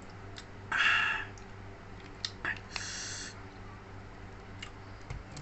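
Close-up eating sounds: two short breathy mouth or nose noises and a few small clicks of chewing, over a steady low electrical hum.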